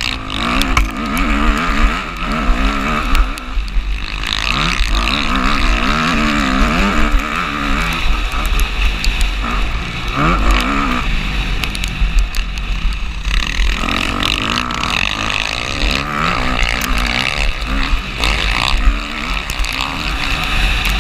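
Motocross bike engine revving hard and falling back again and again as the rider works the throttle through the track, under a constant deep rumble and scattered sharp knocks.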